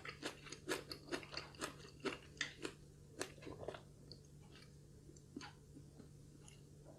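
Close-miked chewing: quick wet mouth clicks about three or four a second, thinning out after about four seconds.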